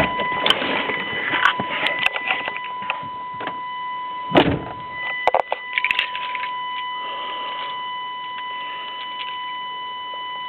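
1996 Chevrolet 1500 pickup's warning alarm sounding a steady high tone: the cab's reminder that the truck has not been started. Clicks and rustling, and a loud knock about four seconds in, from someone moving about in the cab.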